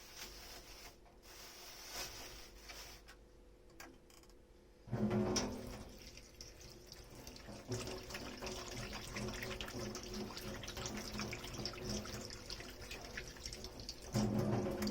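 A few seconds of light clicks, then a kitchen tap is turned on about five seconds in and water runs into the sink. The water gets louder again near the end.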